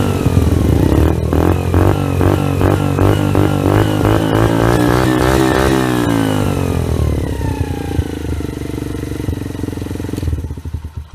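Romet CRS 50 4T's 50cc single-cylinder four-stroke engine running loud through a fake Akrapovič exhaust, its revs rising and falling in quick repeated pulses, then settling lower and easing down before the sound drops away near the end.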